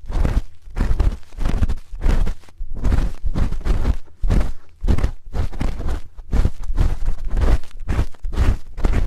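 Spoon scraping and rubbing against a microphone's ear, in repeated strokes about one and a half times a second, each with a dull low rumble.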